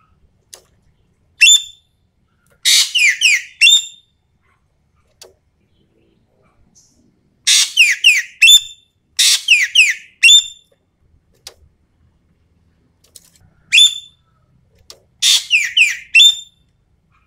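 Sumatran ekek keling (green magpie) calling: loud, sharp, downward-slurred whistled notes fired in quick runs of four to six, with short pauses between the runs.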